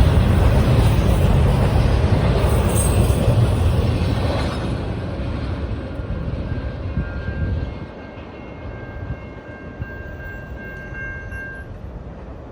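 Freight train rolling past, its rumble fading away about two-thirds of the way through as the cars move off, while a faint, steady high tone is held for several seconds near the end.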